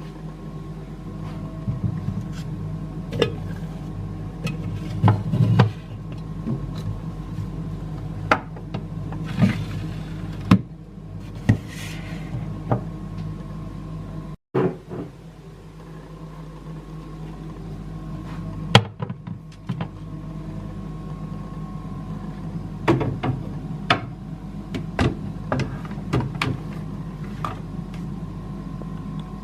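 Plastic storage containers and jars being handled and set down, giving scattered clicks and knocks over a steady low hum. The sound cuts out briefly about halfway through.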